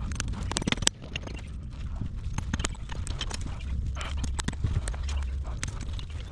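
A horse's hooves clopping on hard ground: a run of irregular sharp knocks.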